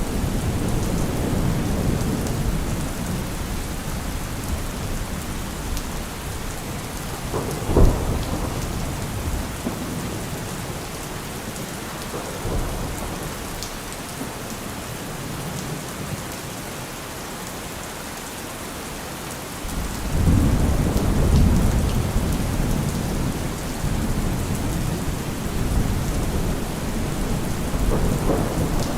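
Heavy rain falling steadily, with deep low rumbles that swell and fade. There is a short sharp thud about eight seconds in, a quieter lull in the middle, and a loud rumble building about two-thirds of the way through.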